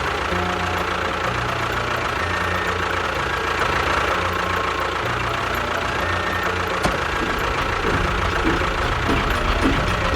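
Engine running steadily at idle, with a run of short mechanical sounds in the last couple of seconds.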